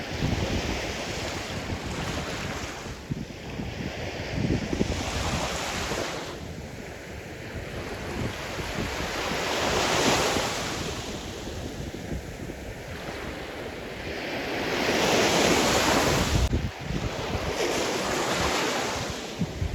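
Sea surf: waves breaking and washing up the shore, the rush of water swelling and easing in four broad surges, with a sudden drop near the end.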